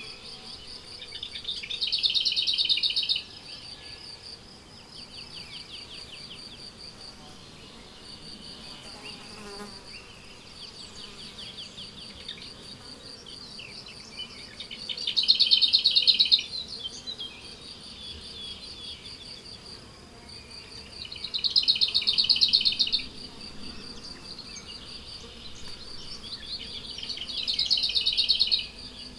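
Crickets chirping steadily. Four louder, pulsed insect-like phrases, each about a second and a half long, come in roughly every six seconds, and faint bird calls are mixed in.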